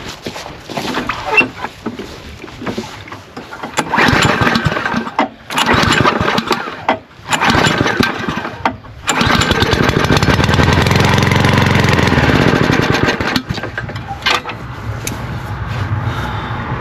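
Petrol lawnmower engine being started on petrol poured straight into its carburetor: several short start attempts, then about nine seconds in it catches and runs for a few seconds before faltering and dying. The engine will not keep running because water got into the carburetor over the winter.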